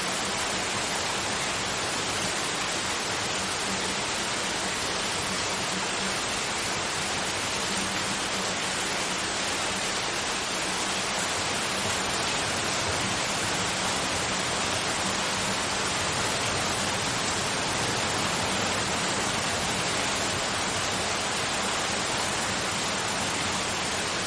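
Steady white noise: an even, unchanging hiss with a faint low hum underneath.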